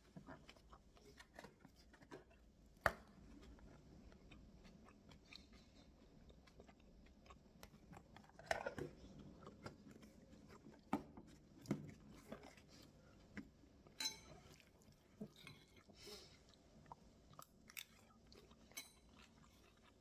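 Faint chewing and crunching of mouthfuls of homemade bibimbap, with scattered short clicks; the sharpest click comes about three seconds in.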